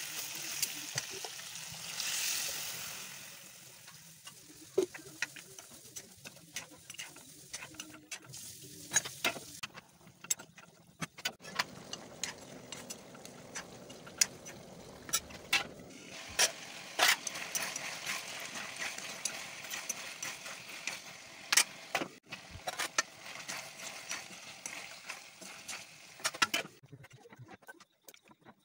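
Pork pieces sizzling in a black wok while a spatula stirs them, with many sharp clicks and scrapes of the spatula against the pan. The sizzling stops near the end.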